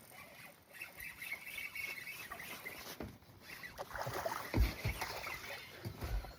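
Handling sounds aboard a small aluminum fishing boat: a faint wavering whir for about two seconds, then several low knocks near the end.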